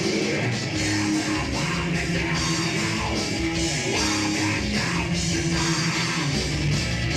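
Live heavy metal band playing loudly: distorted electric guitar riffs over drums, the full band running steadily.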